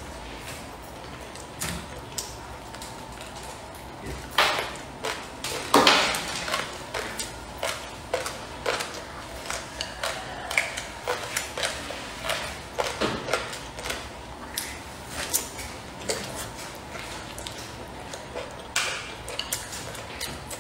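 Close-miked eating: chewing and wet mouth clicks of braised pork belly and vegetables, many short sharp sounds in quick succession, with a few louder, longer bursts about four and a half, six and thirteen seconds in.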